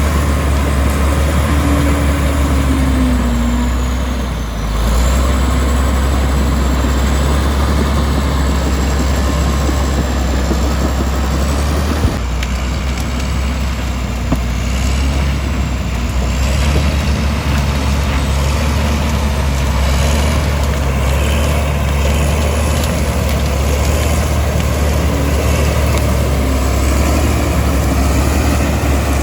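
Komatsu D65E bulldozer's diesel engine running steadily under load, with a heavy low drone. The level dips briefly about four and a half seconds in, and there is a sharp knock about twelve seconds in.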